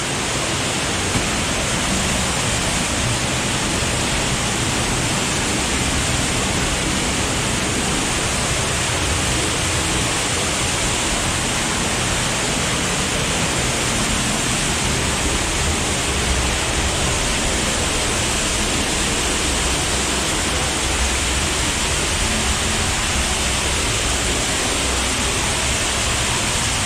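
Underground waterfall in a cave stream passage, its water pouring with a loud, steady rush; the stream is running high.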